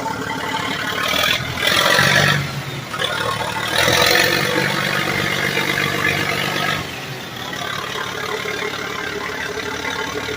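Large bulldozer engine running, getting louder twice: briefly about a second and a half in, then again for about three seconds from around four seconds in.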